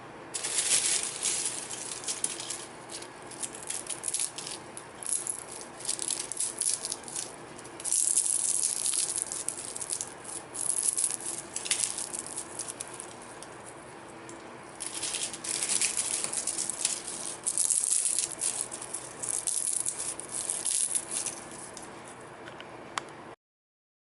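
Crisp dried cabbage pieces rustling and rattling as they are handled, in dry crackly bursts of a few seconds with short pauses between, over a faint steady hum. The sound cuts off suddenly near the end.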